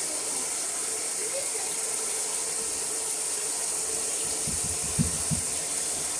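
Steady hiss of running water, with a few dull low thumps near the end, the loudest about five seconds in.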